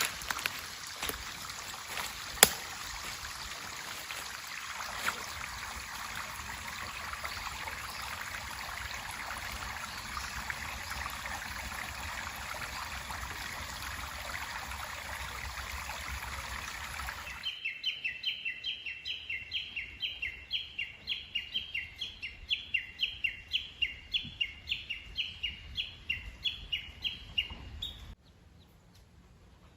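Running water of a mountain stream, a steady rush with a few sharp clicks. About 17 seconds in it cuts off abruptly to a rapid series of short, high chirping calls, about three a second, which stop suddenly near the end.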